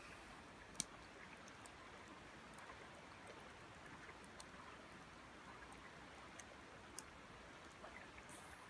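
Faint campfire crackling, with a few sharp pops now and then, over a soft steady hiss of river water.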